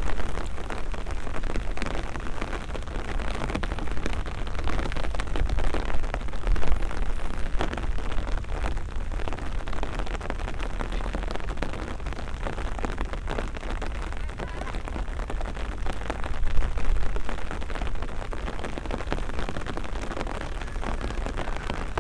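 Steady rain pattering on surfaces close to the microphone, with a constant deep rumble underneath.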